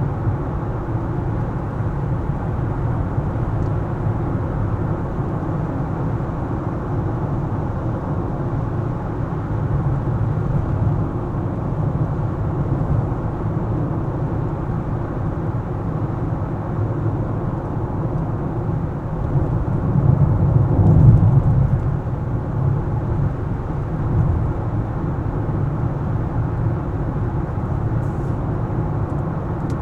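Car driving through city streets: a steady low rumble of engine and tyre noise, swelling louder for a couple of seconds about two-thirds of the way through.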